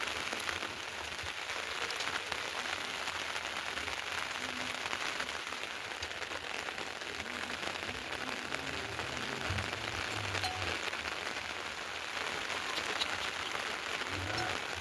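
Steady rain falling and pattering on surfaces, a constant even hiss with many small drop ticks.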